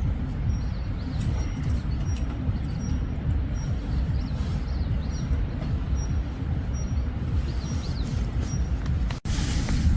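Steady low rumble of wind in a mountain storm, with faint bird chirps over it. About nine seconds in it cuts off sharply and gives way to a louder, hissing rush of wind and rain.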